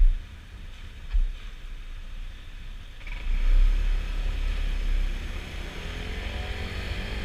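Honda PCX scooter riding along, its engine note rising in pitch over the last seconds as it speeds up. Two short low wind thumps hit the microphone near the start.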